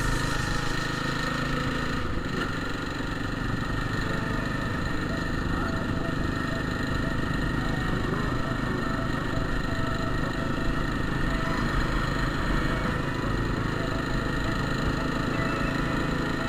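Motorcycle engine running steadily while the bike is ridden, with an even level and no change in engine speed.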